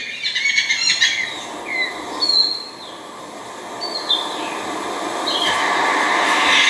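Scissor-tailed flycatcher calling: a quick twitter followed by short, separate chirps that slide up or down, over a steady rushing hiss that grows louder near the end.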